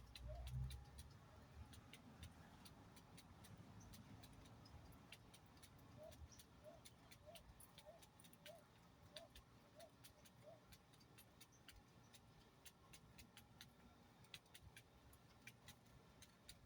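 Faint bird calling: a run of eight short, evenly spaced notes, about one and a half a second, over scattered light ticks and clicks.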